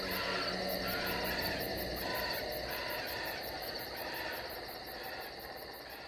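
Recorded night-forest ambience ending the dance soundtrack: a fast, even insect chirping at about seven pulses a second over a steady high hum, with scattered other calls, slowly fading out.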